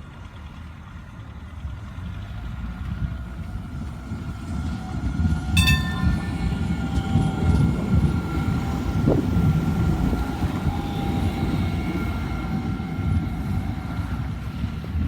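RET Citadis tram approaching and running past, a low rumble that builds and grows loud about five seconds in. A brief ringing note sounds just after that, and a faint steady whine runs over the rumble.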